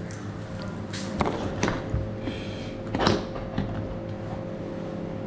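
A few light knocks and clicks, three of them clearer than the rest, over a steady low hum.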